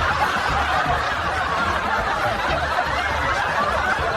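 Steady, continuous laughter with chuckling and snickering, in reaction to a punchline.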